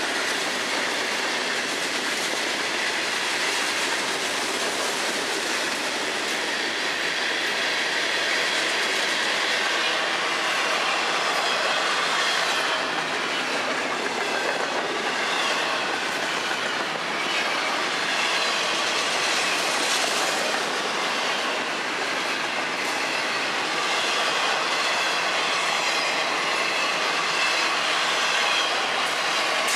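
Freight cars of a long FEC freight train (open hoppers, then double-stack container well cars) rolling past close by. Their wheels make a steady clatter on the rails, with a faint wavering high wheel squeal.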